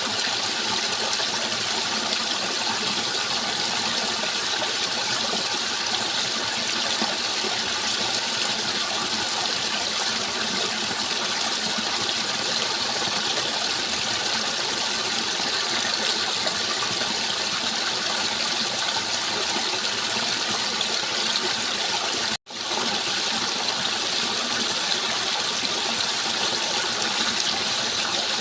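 Steady rushing water, an even continuous flow that breaks off for an instant about 22 seconds in and resumes unchanged.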